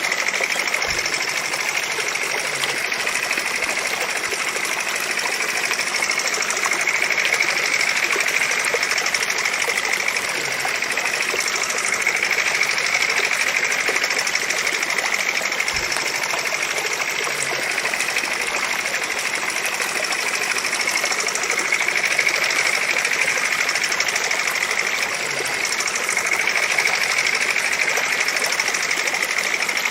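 Miniature model engine of a homemade water-pump rig running steadily, a continuous high-pitched mechanical noise.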